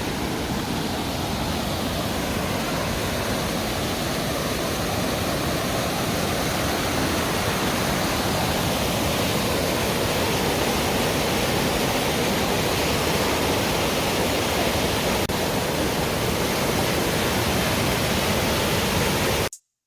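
Mountain stream water rushing steadily, cutting off suddenly near the end.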